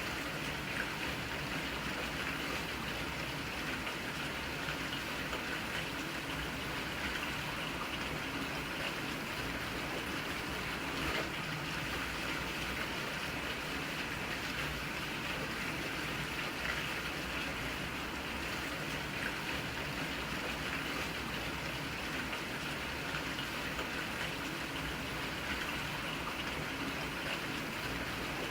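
Steady rain: an even, continuous hiss with a few faint taps.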